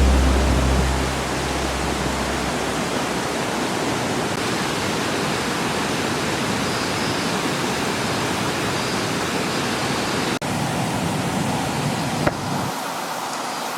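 Steady rush of flowing water, with a low hum fading out over the first two seconds.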